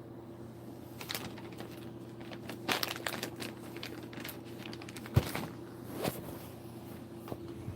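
Scattered clicks and knocks of objects being handled over a steady low electrical hum, with one sharper knock about five seconds in.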